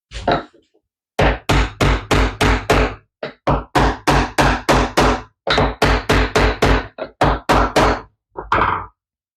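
Brass rod pins being knocked into tight drilled holes in oak, with a scrap of wood taking the blows: rapid knocks about four a second in three runs with short pauses, then two last knocks near the end.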